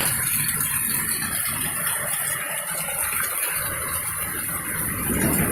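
Heavy wind-driven rain, a steady rushing hiss, with gusts of wind that ease off briefly in the middle and pick up again near the end.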